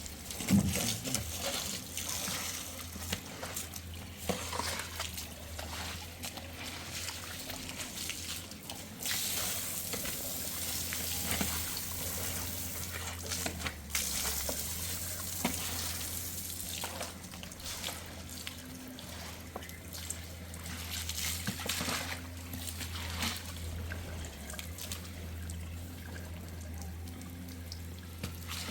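Running, splashing water with many short knocks and splashes scattered through it, over a low steady hum.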